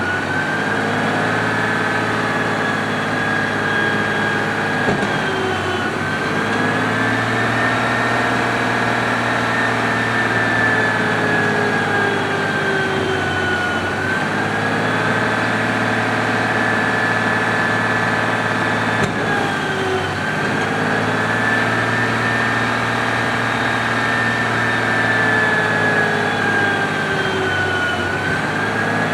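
Automated side-loader garbage truck's engine held at raised revs to drive the hydraulic packer, with a high hydraulic whine over a steady engine hum. The whine dips and climbs back about every 7 to 8 seconds as the packer blade cycles during manual packing.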